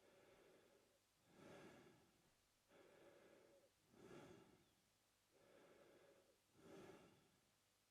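A man breathing slowly and evenly through his mouth. The airy in-and-out breaths alternate, with a full breath about every two and a half seconds, about three in all. It is quiet and close.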